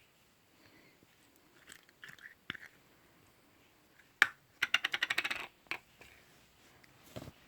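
Slime being pressed and squished close to the microphone, with scattered soft taps, then a sharp click and a fast run of about ten crackling clicks a second for roughly a second.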